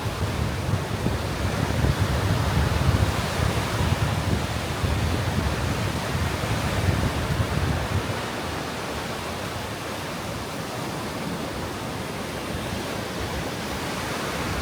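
Steady rushing of rain and breaking surf on a beach, with wind buffeting the microphone in low gusts that ease off about eight seconds in.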